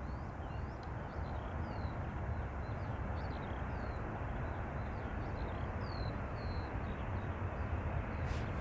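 Steady low rumble of jet aircraft engines, with small birds chirping repeatedly above it.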